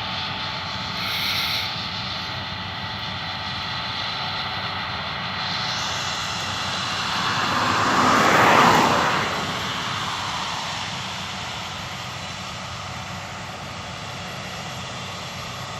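Engine noise of a large machine passing by, swelling to its loudest about eight seconds in and then fading, over a steady background of running machinery.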